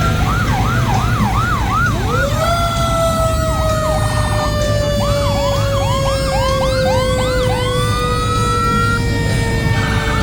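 Emergency vehicle sirens sounding together: a fast yelp of about three rising-and-falling sweeps a second, stopping and starting again, alongside a long wail that slowly falls in pitch, over a steady low rumble.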